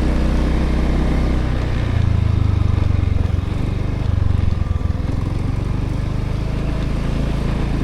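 Motorbike engine running while riding, over road and wind noise; the engine note changes about two seconds in, then settles back to a steady run.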